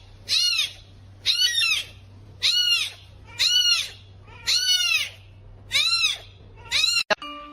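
An animal's high-pitched call, repeated about once a second, seven times; each cry rises and falls in pitch.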